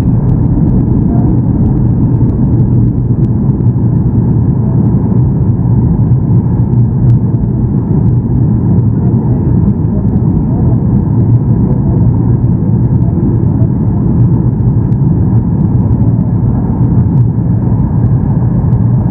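Steady low rumble of cabin noise inside a Boeing 737-800 on final approach: the CFM56 engines and rushing airflow heard from a seat behind the wing, unbroken and even throughout.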